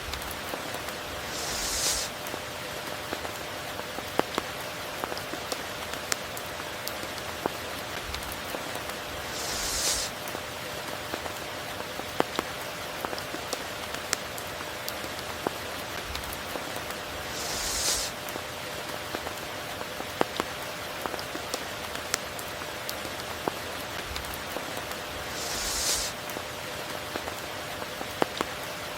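Steady rainfall with scattered single drops ticking sharply. About every eight seconds a brief hiss swells up and stops short, four times in all.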